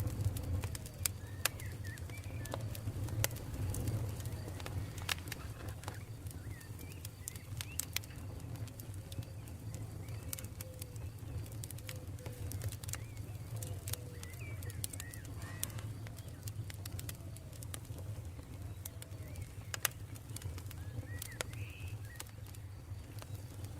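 Wood campfire crackling, with scattered sharp pops over a steady low rumble. Birds call throughout, in short low notes and higher chirps.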